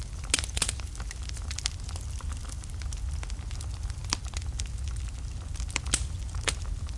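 Wood fire burning in a fireplace: irregular sharp crackles and pops over a steady low rumble of the flames, with the loudest pops shortly after the start and again about six seconds in.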